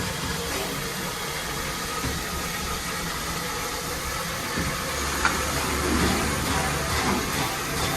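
Steam locomotive running with a steady mechanical rumble and hiss; the low rumble grows stronger about halfway through, with one sharp click a little later.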